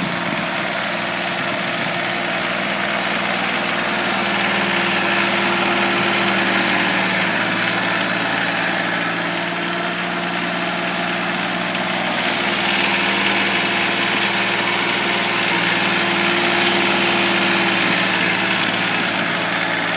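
Kioti compact tractor's diesel engine running steadily, with mild rises and falls in level.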